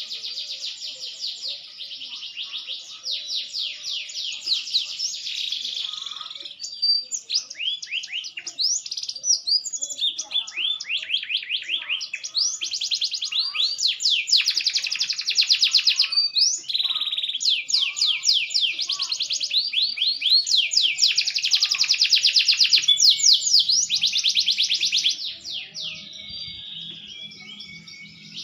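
Green canary singing a long, continuous song of fast trills, one rolling phrase after another. It is softer near the end.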